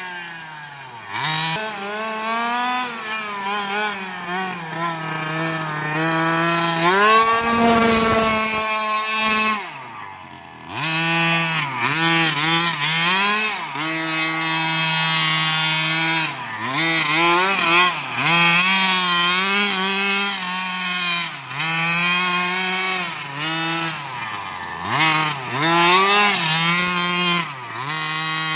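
Redcat Rampage XR Rally's 30cc two-stroke gas engine, fitted with a JetPro tuned pipe, revving up and falling back over and over as the car is driven and drifted. About seven seconds in there is a louder stretch of rushing noise under a high rev.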